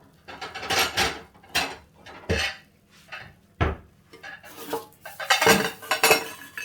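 Cutlery and dishes clattering and scraping in a run of short, sharp knocks and scrapes, busiest near the end, as food is served onto plates.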